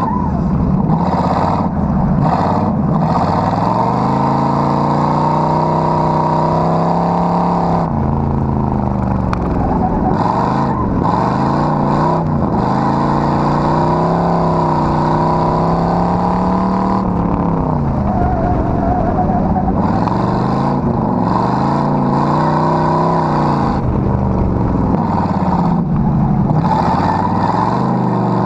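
Car engine revved hard and repeatedly, its pitch climbing, holding high for several seconds and dropping again several times, over a steady rushing noise.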